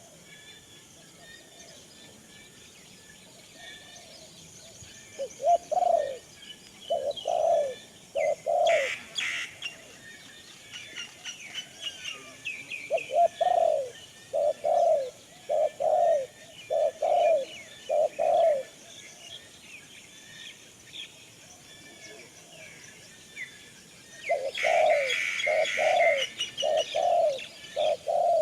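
Birds calling: one bird gives low calls in three runs of four to six evenly spaced notes, over a constant high twittering of smaller birds. A short rustling noise comes about nine seconds in and again near the end.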